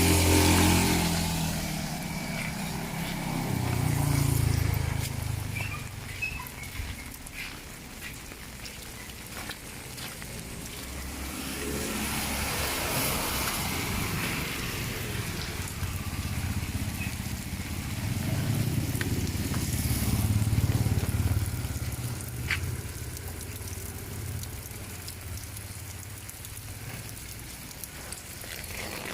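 Steady rain falling, with motor vehicles passing by; their engines swell and fade right at the start, about four seconds in, and again around twenty seconds.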